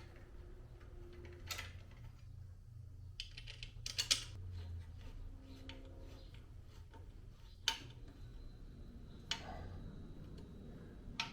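A handful of light metallic clicks and taps from a hand tool and a small screw, with a quick cluster about four seconds in: a screw being taken out and fitted into a motorcycle where one was missing.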